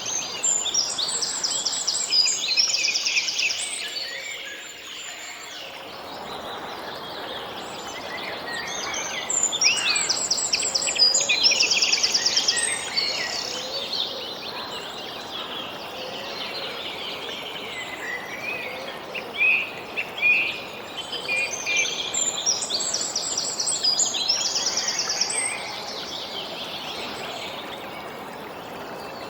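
Songbirds singing in three spells of quick, repeated chirping and trilled phrases, at the start, around the middle and near the end, over a steady background hiss.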